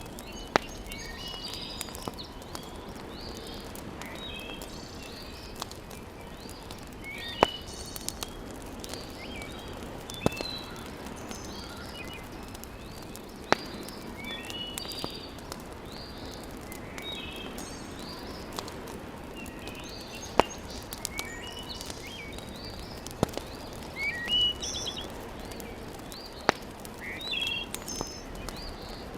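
Fireplace fire crackling, with a sharp pop every few seconds, over a steady low hiss. Birds chirp and sing throughout.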